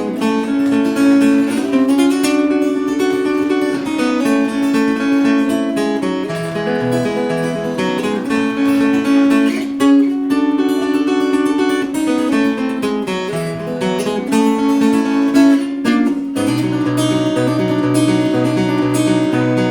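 Acoustic guitar playing an instrumental break, chords ringing and changing every second or two. About three-quarters of the way through, a lower bass line joins in.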